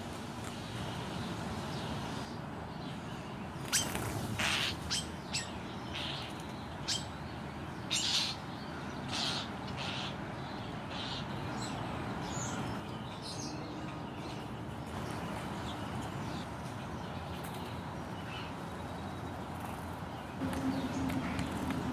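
Wild birds calling at a backyard feeding spot: a run of short, sharp calls, clustered in the first half, over a steady low background hum.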